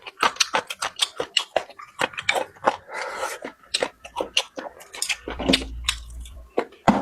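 Close-miked chewing: a person eating with rapid wet smacks and crunches, several a second, with a brief low rumble about five seconds in.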